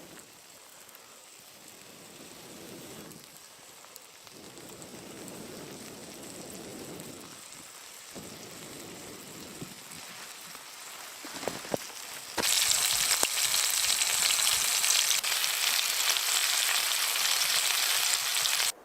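Food frying in a hot pan. A soft sizzle at first, then a loud, steady sizzle starts suddenly about twelve seconds in and cuts off abruptly near the end.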